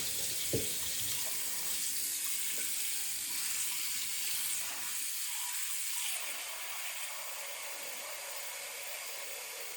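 Kitchen tap running steadily into a sink, with a single knock about half a second in. The water stops near the end.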